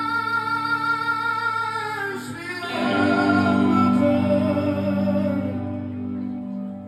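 Live concert music: a singer holds a long note with vibrato, then slides down off it about two seconds in, while the sustained instrumental accompaniment rings on and gradually fades.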